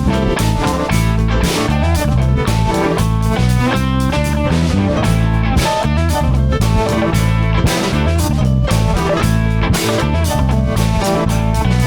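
Instrumental section of a blues-rock song: electric guitar playing over a steady drum-kit beat and bass, with no vocals.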